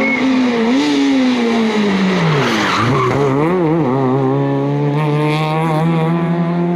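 Fiat Seicento rally car's engine coming off high revs as it brakes for a corner, its pitch falling to a low point about two and a half seconds in. The note wavers up and down through the turn, then settles to a steady pull as the car drives away.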